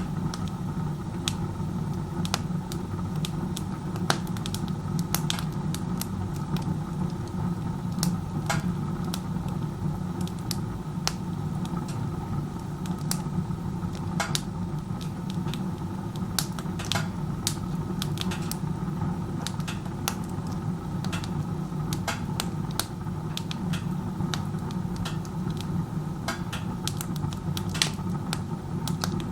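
Wood stove burning with its door open like a fireplace: a steady low rush of air drawn up the chimney by a very strong draft, with irregular sharp crackles and pops from the burning wood. A draft this strong pulls the heat up the flue, so the burn is inefficient.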